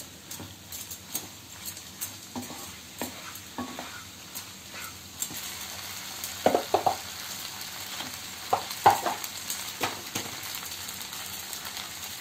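Macaroni and vegetables in sauce sizzling as they are stir-fried in a nonstick kadai, with a wooden spatula scraping and knocking against the pan now and then.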